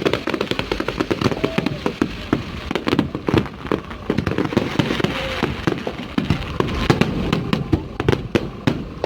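Fireworks display: a rapid, continuous barrage of bangs and crackles, many bursts a second.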